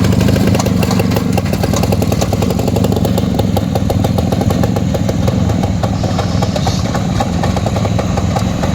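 Rajdoot 175's single-cylinder two-stroke engine running steadily, its rapid firing pulses crackling through the exhaust.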